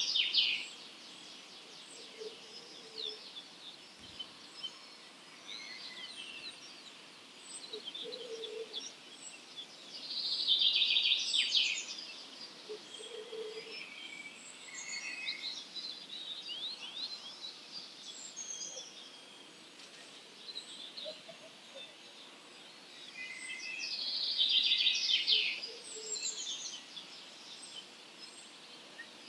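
Wild songbirds singing in an early-morning chorus, with loud, busy song phrases coming back about every twelve seconds and scattered high chirps in between. Short, soft low calls sound now and then underneath.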